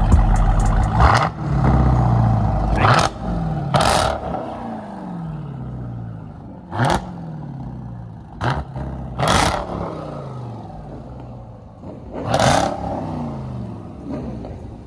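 Jeep Grand Cherokee Trackhawk's supercharged 6.2-litre Hemi V8 being revved hard in about seven sharp blips. After each blip the revs fall back toward idle.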